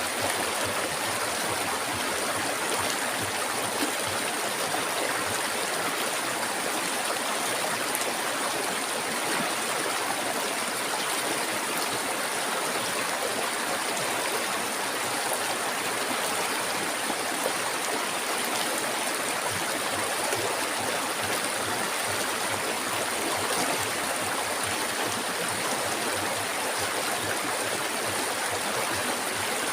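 River water flowing steadily over rocks, an even rushing with no pauses.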